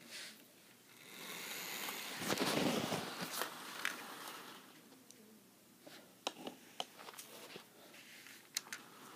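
Hornby model locomotive and coach running on the track: a rushing sound swells for a couple of seconds and fades, then a scatter of sharp clicks in the second half.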